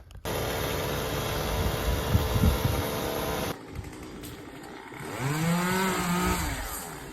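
Gas chainsaw running hard, cutting off abruptly about three and a half seconds in; then a chainsaw revving up and back down once.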